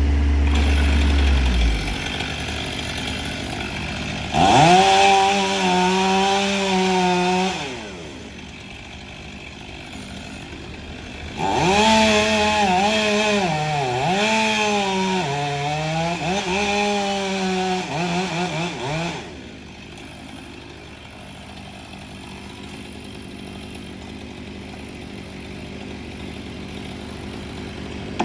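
Chainsaw cross-cutting a horse chestnut stem into logs: two cuts, the first about three seconds long and the second about seven, the engine pitch dipping and recovering under load, quieter between and after the cuts. A loud low engine drone stops about two seconds in.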